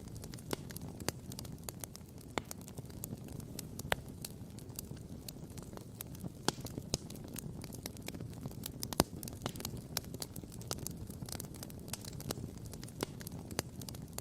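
Wood campfire crackling and popping: irregular sharp pops and snaps over a low steady rush, with one louder pop about nine seconds in.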